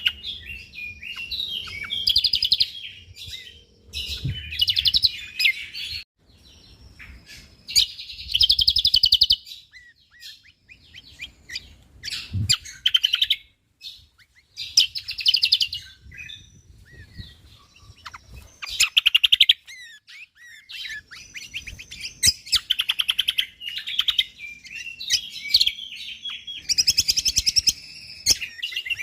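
A cucak kombok (kecial kombok) songbird singing: fast, dense phrases of sharp chirps and trills, each lasting a second or two, with short pauses between them.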